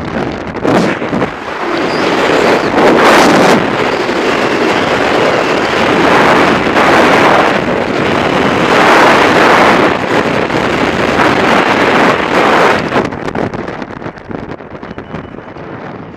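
Freefall wind rushing and buffeting the microphone of a skydiver's camera. It builds over the first couple of seconds, stays loud and gusting, and eases off near the end.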